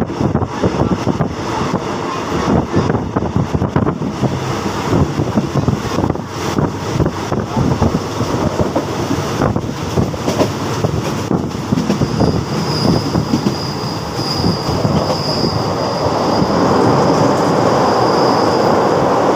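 Passenger train running along the track, heard from inside the carriage: rumbling wheel-and-rail noise with quick knocks and rattles. A faint high steady whine joins about twelve seconds in, and the rush grows louder and steadier near the end.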